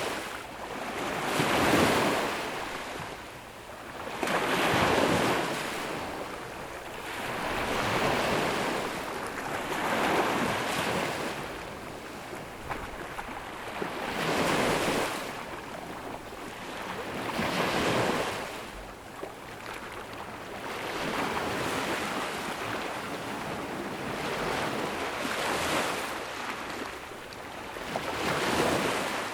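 Ocean waves breaking on a sandy beach, the surf swelling and falling back roughly every three seconds in a steady rhythm.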